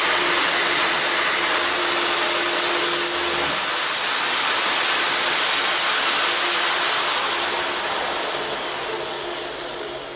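Electric drill motor in a Wabeco drilling stand running at speed, then switched off about seven seconds in, its high whine falling in pitch as it spins down.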